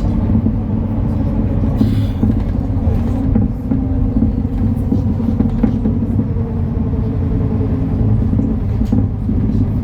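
MAN Lion's City NL293 city bus running on the road: a steady low diesel rumble with road noise. A whine eases slightly lower in pitch around the middle, and there is a short hiss about two seconds in.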